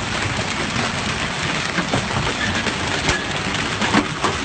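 Rain falling steadily and hard, with a few sharper drop impacts standing out, the loudest about three and four seconds in.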